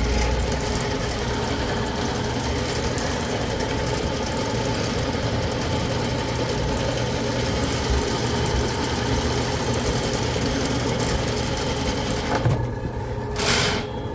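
Ridgid K-60 sectional drain cleaning machine running steadily as it spins its cable into a clogged sewer line, then shutting off about twelve and a half seconds in; a short burst of noise follows near the end.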